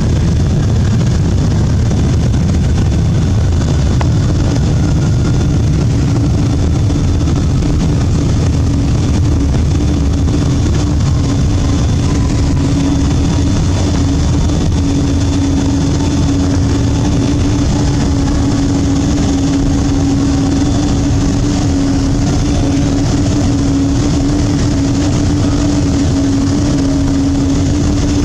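Boeing 777-200 cabin noise, heard from inside the cabin: a steady, loud rumble of engines and airflow with a constant hum. Fainter whines slowly fall in pitch.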